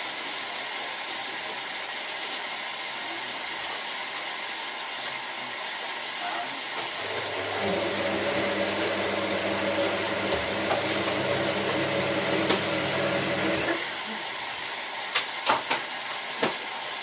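Hotpoint 9534A washing machine mid-cycle: a steady hiss throughout, then its motor hums for about seven seconds from about seven seconds in and stops abruptly. A few sharp clicks follow near the end.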